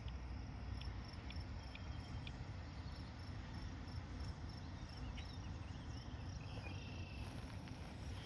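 Insects chirping, likely crickets: short high chirps repeating evenly a few times a second, over a steady low rumble.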